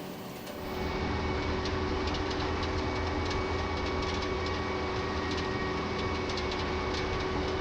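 Vermeer ZR5 1200 self-propelled baler running: a steady engine hum with a light, irregular clicking rattle. It grows louder just under a second in.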